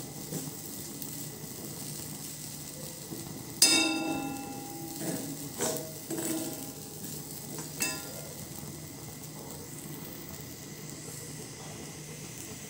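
Moong dal paste frying in a kadai with a faint steady sizzle, while a metal spoon stirs and scrapes it. The spoon clinks against the pan several times. The loudest clink, a little under four seconds in, rings briefly.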